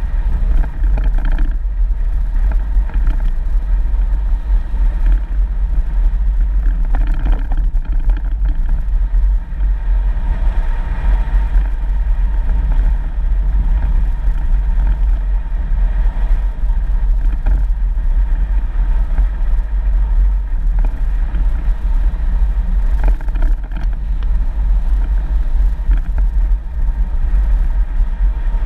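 4x4 vehicle driving along a dirt road: a steady low rumble of engine and tyres.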